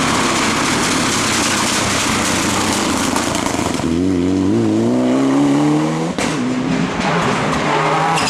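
Rally car engine at full throttle on a special stage: a loud rushing pass, then the engine note climbs steadily under acceleration from about four seconds in. At about six seconds it breaks off sharply for an upshift, then pulls on.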